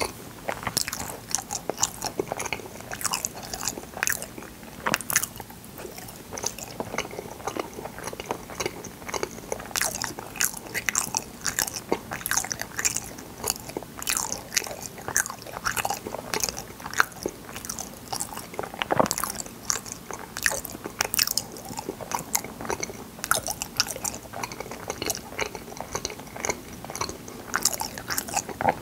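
Close-miked chewing of soft, sticky fruit yanggaeng (sweet bean jelly), a steady run of short clicking and smacking mouth sounds.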